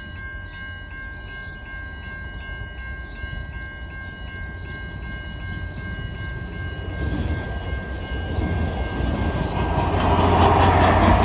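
Level-crossing warning bell ringing steadily. From about seven seconds in, an approaching Adelaide Metro 3000-class diesel railcar set grows louder until it reaches the crossing near the end.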